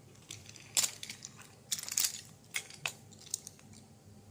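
A handful of sharp clicks and short crinkling rustles, the loudest about a second in and again around two seconds in.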